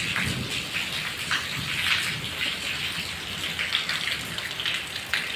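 Rain falling, with a steady patter of many separate drop hits splashing onto surfaces.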